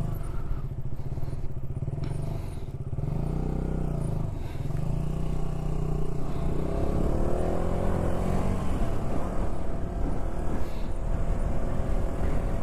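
Motorcycle engine running under way. Its pitch drops about three seconds in, then climbs in steps a few seconds later as the throttle and gears change.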